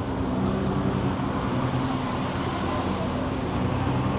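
City street traffic: vehicle engines running steadily with a low hum, over a constant wash of road noise.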